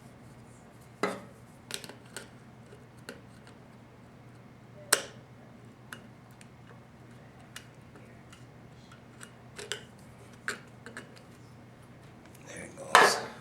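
Scattered metallic clicks and clinks of steel 4L60E pump parts and hand tools being handled, with sharper knocks about a second in and about five seconds in, and a louder clatter near the end.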